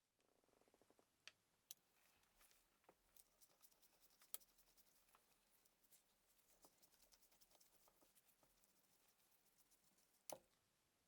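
Near silence with faint scattered clicks and light taps, including a quick run of small ticks in the first second, a sharper click about four seconds in and another near the end.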